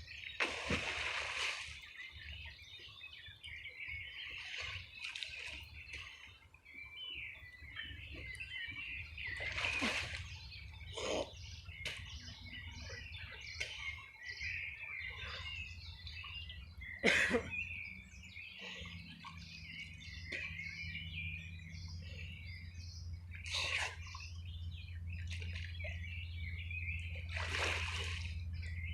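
Water splashing every few seconds as a person bathes, with many small birds chirping and singing without pause.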